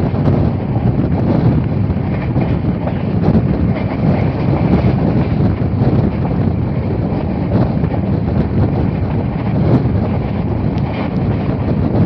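Passenger train running at speed: a steady low rumble of the coach on the rails, with wind buffeting the microphone.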